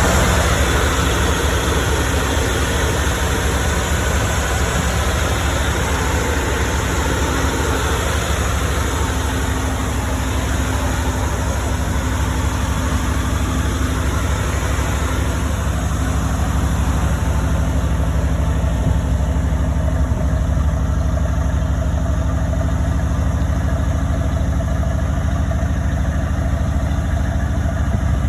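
1965 Chevrolet C-60 dump truck's 283 small-block V8 idling steadily.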